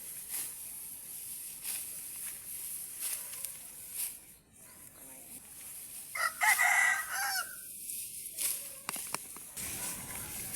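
A rooster crows once, a single drawn-out call starting about six seconds in, over scattered short crisp clicks.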